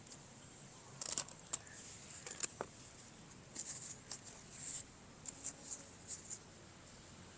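Toy packaging being handled: plastic crinkling and rustling with a few sharp clicks, in scattered bursts through the middle seconds.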